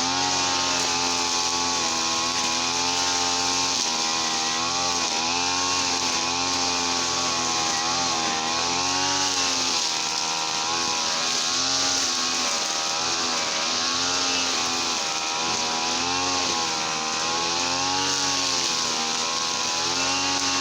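Small petrol engine running at high revs, its pitch swaying up and down every second or two as the throttle or load changes.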